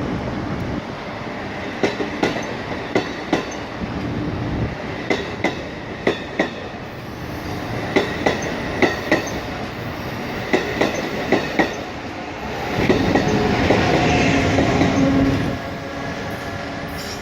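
Amtrak Acela Express train moving past the platform, its wheels clicking over rail joints in repeated pairs of clicks. A louder stretch of steady machinery noise lasts about three seconds near the end.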